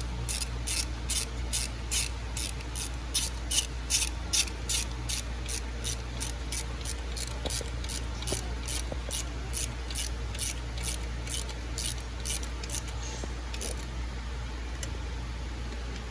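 Hand ratchet wrench run back and forth to spin bolts down, giving a quick series of short rasping ratchet bursts, about three a second, that thin out and stop near the end.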